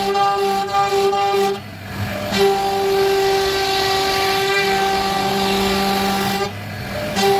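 CNC router spindle cutting wood, a steady high whine that briefly drops away about two seconds in and again near the end.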